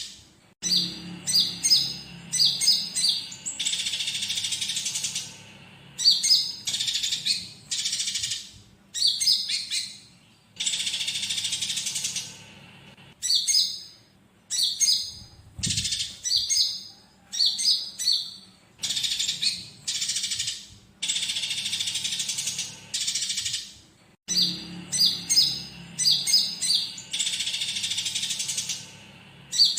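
Recorded bird calls of a konin (olive-backed sunbird) mixed with the chattering of fighting Eurasian tree sparrows. It is all high-pitched, in clusters of quick sharp chirps alternating with longer buzzy chattering phrases, with short gaps between.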